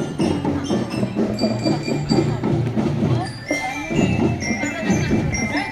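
Marching drum band playing: drums beat a steady rhythm while a bell lyre (glockenspiel) rings out the melody in high, bell-like notes.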